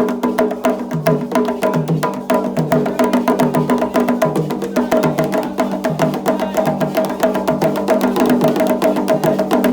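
Candomblé ritual percussion music: drums and sharp wooden-sounding strikes keeping a fast, steady rhythm.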